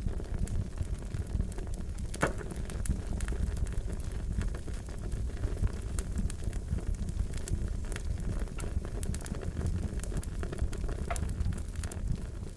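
Wood fire burning with a steady low rumble and irregular sharp crackles and pops, one louder crack about two seconds in.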